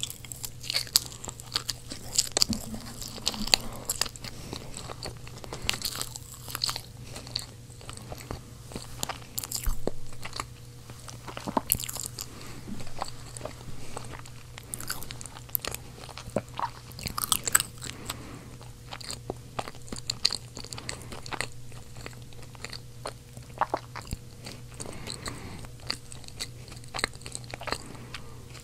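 Close-miked chewing of seasoned, skin-on roasted baby potatoes: irregular sharp mouth clicks and crunches throughout, over a steady low hum.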